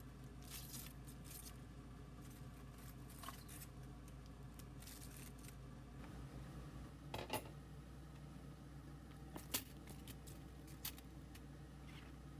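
A few light clicks and taps of small household objects being handled, over a steady low hum.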